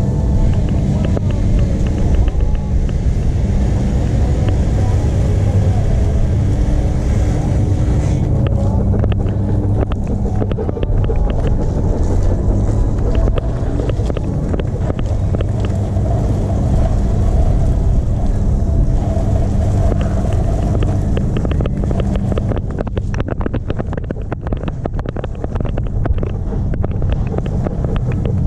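A motor running steadily with a low rumble and wind buffeting the microphone.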